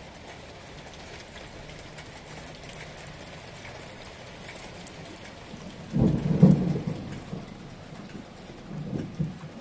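Steady rain falling, with a brief low rumble about six seconds in, the loudest sound, and a fainter one near the end.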